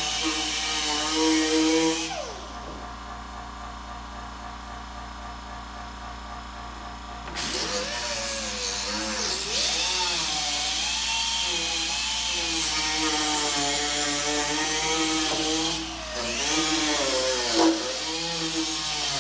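Handheld power tool running in short stretches, its pitch dipping and wobbling as it bears into the work. It shuts off and spins down about two seconds in, then starts again about seven seconds in and keeps cutting with a brief pause near the end.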